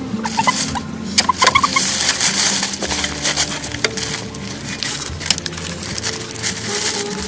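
Dense crackling and rustling, many quick clicks like dry material being handled or scratched, over soft background music with held notes.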